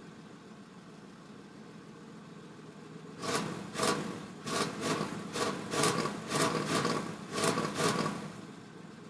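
Car engine idling on a cold start, exhaust smoking. From about three seconds in, a run of about ten loud, hissy bursts comes at roughly two a second for some five seconds, then it settles back to the idle.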